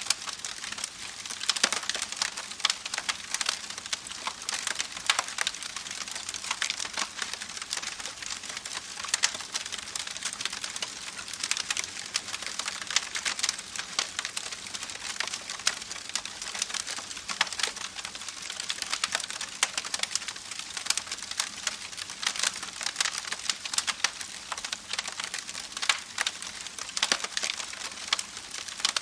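Campfire burning with steady crackling: a dense run of small snaps and pops over a soft hiss, a few louder pops standing out.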